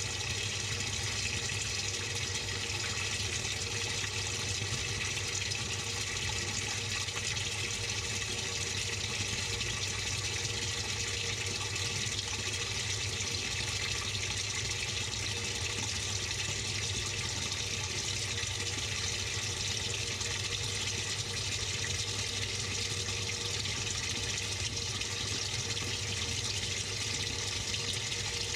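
Water running steadily inside a Samsung 6.5 kg top-load washing machine, heard from within the tub as an even hiss over a steady low hum.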